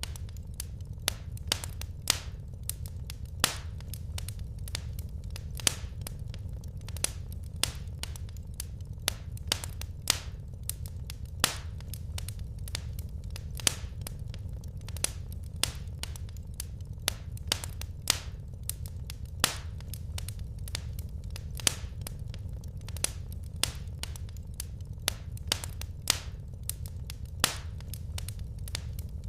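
Wood fire crackling in a fireplace: frequent sharp snaps and pops, irregularly spaced, over a low steady rumble.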